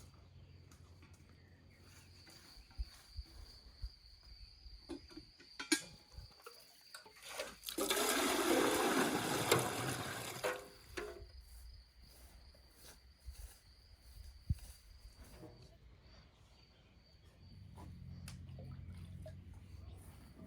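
Mostly quiet, with scattered small clicks and knocks and a faint steady high tone, broken about eight seconds in by a rush of water lasting about three seconds.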